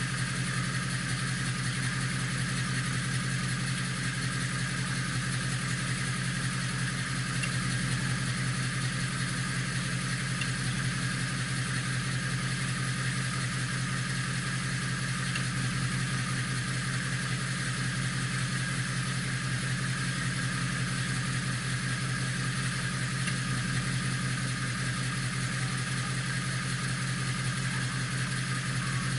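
2016 Ford Mustang GT's 5.0-litre V8 idling steadily, with no revs.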